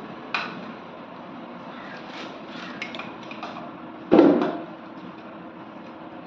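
Knocks and light clinks of ceiling fan parts being handled, with one loud knock about four seconds in, over a steady background hum.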